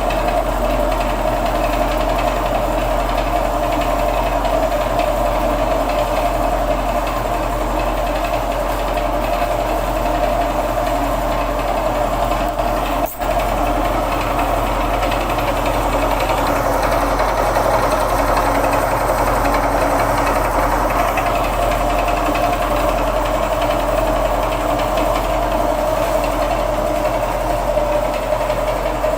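A small motor-driven machine running steadily with a rattling whir and a low hum. It breaks off for a moment about thirteen seconds in, then runs on unchanged.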